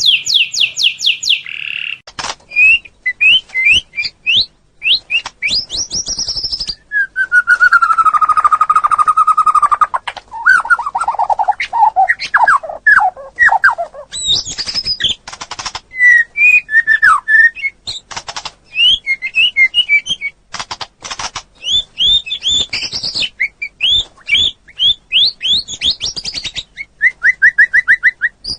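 Songbird singing: a varied run of fast trills, chirps and rising and falling whistles in short phrases with brief pauses, including a longer, lower whistled phrase about a quarter of the way in.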